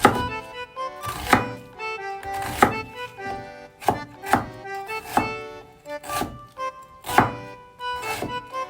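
A knife chopping on a cutting board in slow, uneven strokes, about one a second, over background accordion music.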